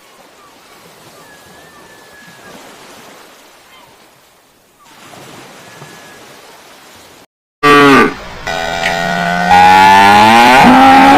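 Faint outdoor background with a couple of faint high chirps, then about seven seconds in a cow starts mooing loudly in a long, drawn-out call.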